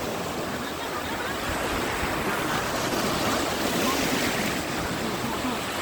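Sea waves washing onto a sandy beach in a steady wash, with wind on the microphone.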